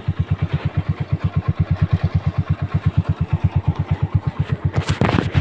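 Yamaha motorcycle engine idling with a steady, even exhaust beat of about nine pulses a second. Near the end a louder rushing noise comes in over it.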